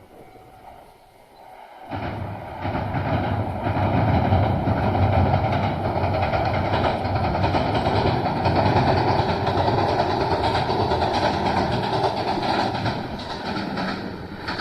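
A train passing close by at speed, arriving suddenly about two seconds in: a loud rumble with wheels clacking over the rail joints, easing off near the end.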